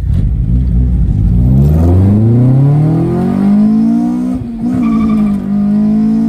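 Honda B20B four-cylinder on individual throttle bodies under hard acceleration, heard from inside the cabin. The revs climb steadily for about three seconds, break briefly for a gear change about four seconds in, then pull on again in the next gear.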